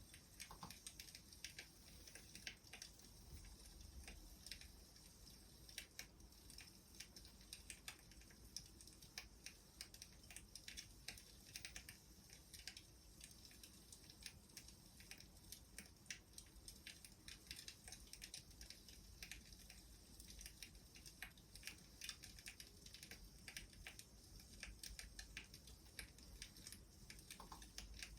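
Faint crackling of a wood fire: irregular quick pops and snaps over a steady soft hiss.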